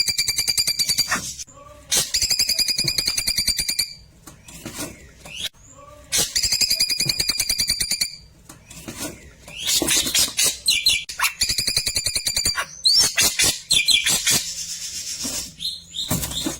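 A klewer songbird singing a fast, rattling trill of rapid even notes at one pitch, each burst about two seconds long, repeated four times with shorter varied chips and notes in between. This is the burst-style song ('tembakan') that keepers play as tutor song for white-rumped shamas.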